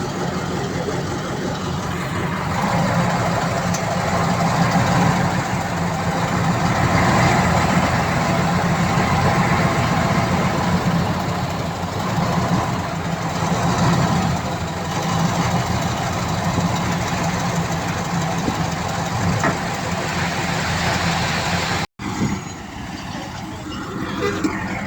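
Heavy diesel engine of earthmoving machinery running steadily, louder through the middle, with a brief dropout near the end.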